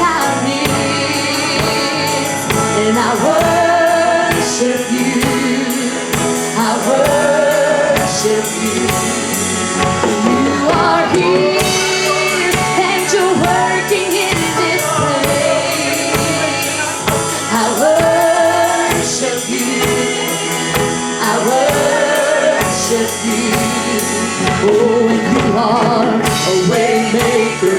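Live gospel worship music: a band playing under sung vocals, with a lead voice and backing singers.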